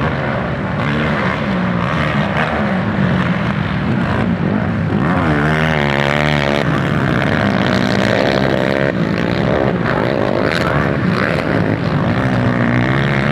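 Motocross dirt bike engines running hard and revving around the track. About five seconds in, one engine's pitch wavers rapidly up and down for a second or so as the throttle is worked.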